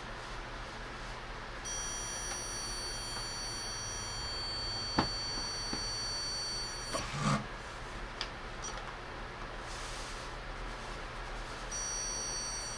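Zircon multi-scanner stud finder's beeper sounding a steady high-pitched tone for about five seconds, the signal that it is over a target behind the wall. The tone stops, a few clicks and a soft knock follow, and the tone starts again near the end.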